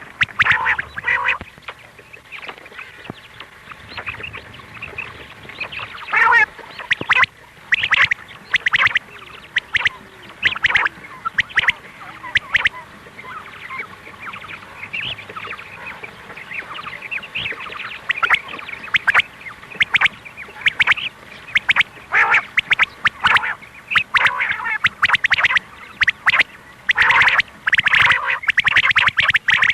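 Quail calling in a fast, irregular run of short, sharp notes, the female quail's 'kirak' call used as a lure in quail hunting.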